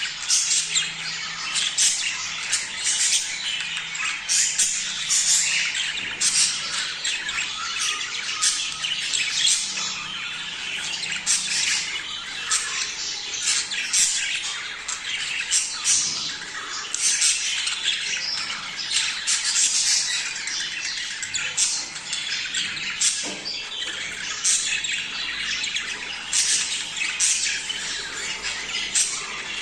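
A flock of budgerigars chattering continuously, with frequent short, sharp squawks over a steady warbling background, the kind of flock chatter that breeding budgies make.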